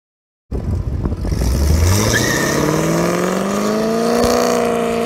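1997 Corvette C5's LS1 V8 accelerating hard in a drag launch. It starts suddenly about half a second in, and the engine note climbs steadily for about four seconds before levelling off near the end.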